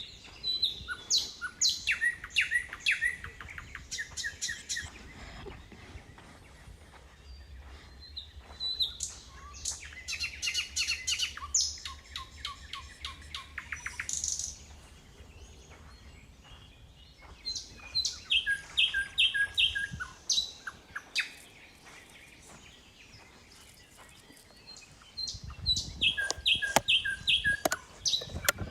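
Small songbirds singing in bouts of quick repeated chirping notes, about four bouts with short quieter pauses between them.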